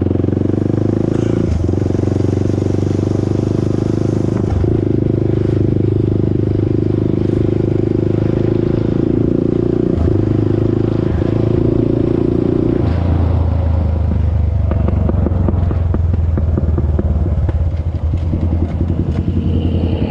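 Honda TRX400EX ATV's single-cylinder four-stroke engine running under throttle, its note dipping briefly a few times, then settling to a lower, steadier note about thirteen seconds in. No tick is plainly heard; the rider judges the ticking noise solved.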